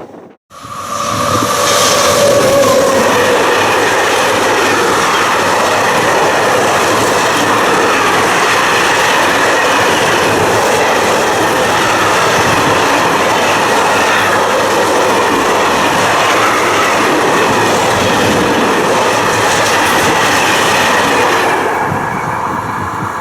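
Freight train behind an electric locomotive passing close by: a falling tone in the first couple of seconds, then the steady, loud rolling and clatter of wagon wheels over the rails. It eases off about two seconds before the end.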